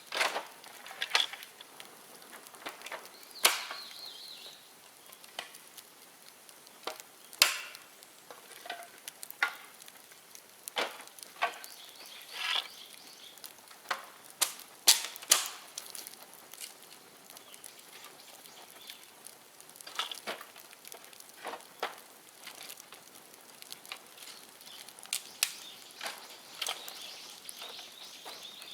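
Bonfire of dead bamboo crackling, with sharp irregular pops and snaps over a low hiss; the pops are most frequent and loudest in the first half.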